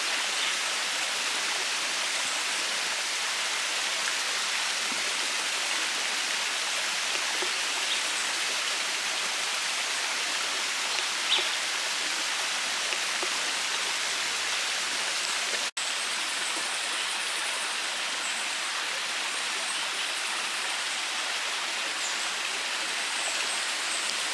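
Steady rushing of water from a small waterfall cascading down rock ledges, as an even hiss with no breaks. It drops out for an instant about two-thirds of the way through.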